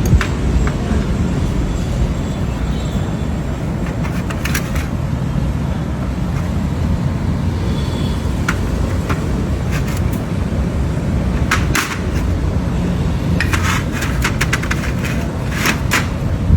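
Steady low rumble of a Hyundai Venue on the move, with scattered sharp clicks and knocks that come thicker and faster near the end.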